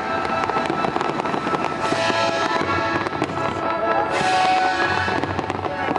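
Fireworks going off in quick succession, with many sharp reports and crackles over steady music. Two spells of louder crackling hiss come about two and four seconds in.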